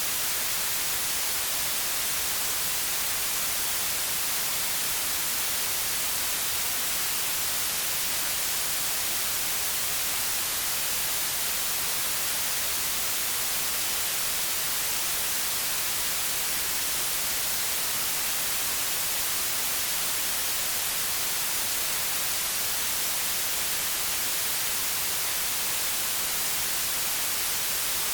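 Steady white noise: an even, unbroken hiss with most of its energy in the highs, never changing.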